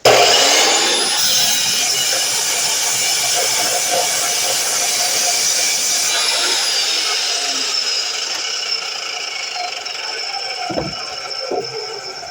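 DeWalt miter saw switched on abruptly and running, its loud whine slowly easing off over the following seconds. Two low knocks come near the end.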